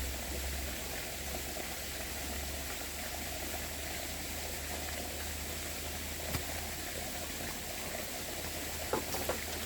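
Steady rushing noise over a low hum, with a few faint knocks, the last two near the end.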